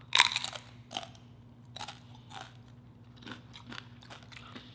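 A crisp tortilla chip bitten with one loud crunch just after the start, then chewed with a series of crunches that grow weaker and sparser toward the end.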